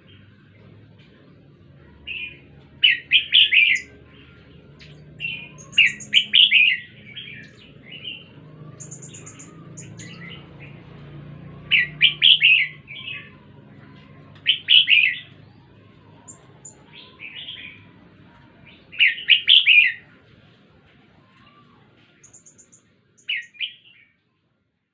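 Red-whiskered bulbul singing: short, bubbly, warbling phrases repeated every two to three seconds, about seven in all, with faint high chirps between them.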